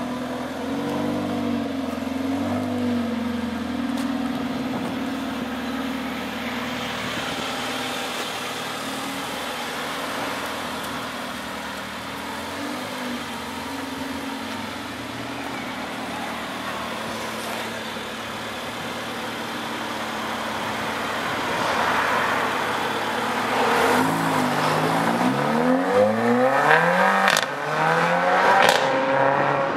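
Mercedes-Benz A45 AMG Edition 1's 2.0-litre turbocharged four-cylinder engine and exhaust: revs rise and fall in the first few seconds, then run steadier. In the last several seconds the car accelerates hard, pitch climbing in repeated sweeps that break off and start lower at each upshift, getting louder.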